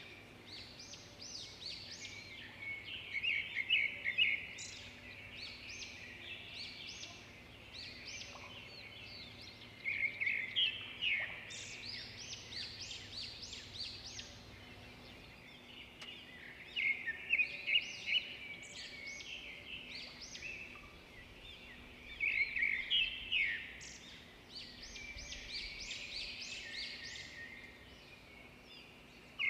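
Birds chirping and singing, with a louder cluster of rapid chirps about every six seconds.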